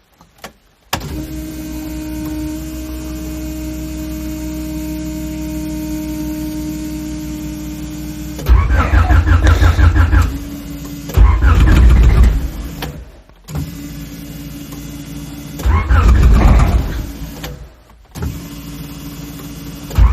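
Cold car engine being cranked by its starter in four tries of a second or two each, not catching. A steady electric whine starts about a second in and runs between the tries.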